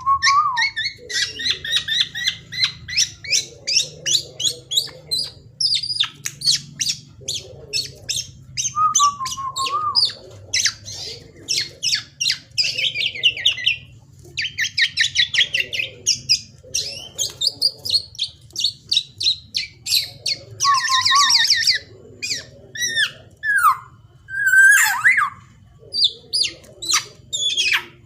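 Young black-naped oriole (kepodang) calling in a long varied run: fast harsh chattering and squawks mixed with a few short fluty whistles, over a faint low hum.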